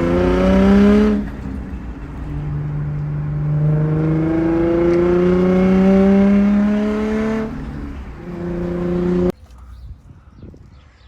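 Infiniti G35's VQ35DE V6 engine pulling up through the revs under acceleration. The pitch climbs briefly, drops as if on a gear change, then climbs again slowly for about five seconds before dropping once more. The sound cuts off suddenly about nine seconds in.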